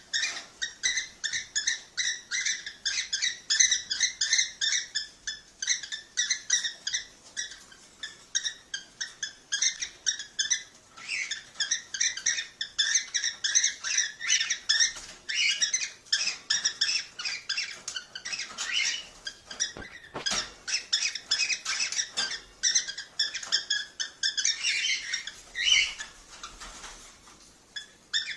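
Cockatiels chirping rapidly and without pause, short high calls several a second, easing briefly near the end.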